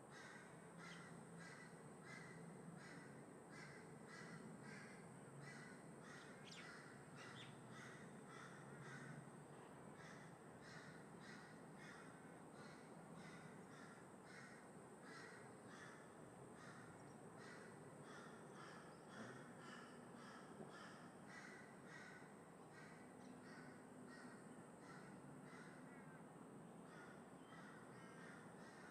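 Crows cawing faintly in a long, quick series of short caws, about two or three a second, over a low hum of distant traffic.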